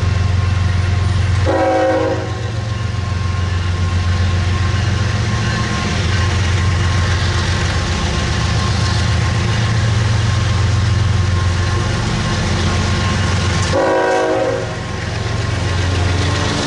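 Diesel freight locomotive engine running with a steady, loud low drone, and two short blasts of its multi-chime air horn, one near the start and one near the end.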